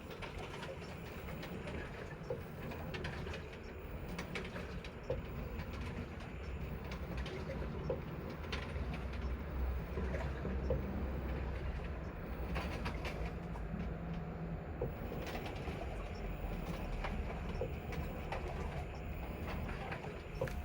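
Panasonic inverter washing machine's DC three-phase brushless motor running during the wash, a low hum that swells and fades as it drives the wash action back and forth, with light ticks every second or two.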